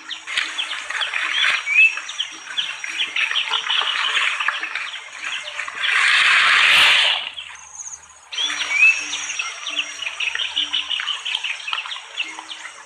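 Wild birds chirping rapidly in a dense chorus, with a steady high insect-like drone and short low notes repeating underneath. About six seconds in, a loud burst of noise lasting about a second covers it, followed by a brief lull before the chirping resumes.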